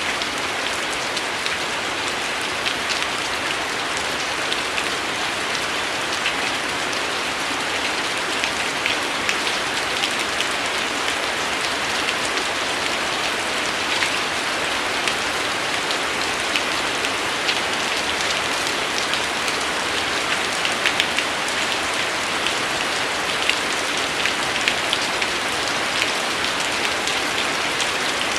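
Steady rain falling on a hard surface, a dense even hiss with many small drops ticking through it.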